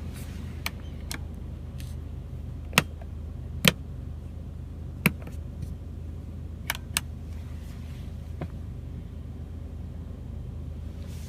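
Steady low hum inside the cabin of a 2015 Range Rover Evoque, with about eight sharp clicks and taps scattered through it; the two loudest come about three and four seconds in.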